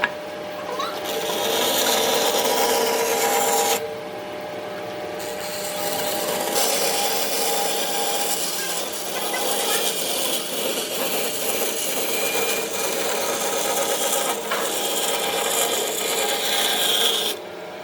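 An abrasive tool scraping steadily over wood, stopping briefly about four seconds in and again near the end.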